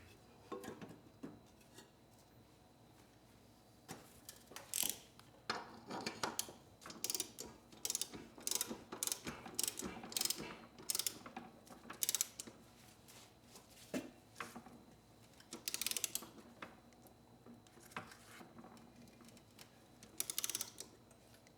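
Ratcheting torque wrench clicking in quick runs of strokes as the mower's blade bolt is tightened down to torque.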